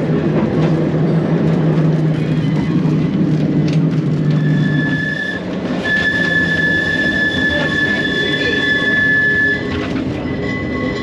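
Manx Electric Railway tram running on its rails, a steady low hum under loud rumbling for the first half. Its wheels squeal with a steady high tone from about four seconds in, stopping about nine and a half seconds in.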